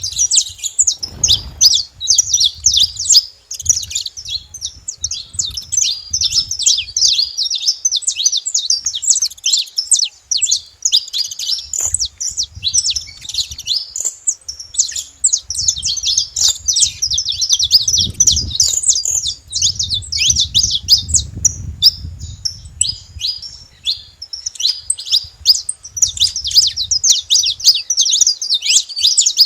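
A flock of saffron finches chirping continuously, many short high calls overlapping with no break. A low rumble sits underneath, strongest about two-thirds of the way through.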